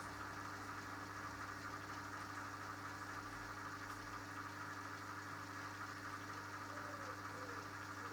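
Mini washing machine running mid-cycle: a steady electric motor hum with a low drone.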